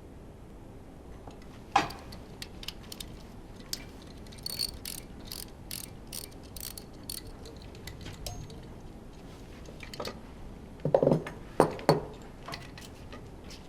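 Hand tools working on a Honda V10 Formula One engine during disassembly: scattered sharp metallic clicks, a quick run of about three clicks a second in the middle, then a few heavier clunks near the end.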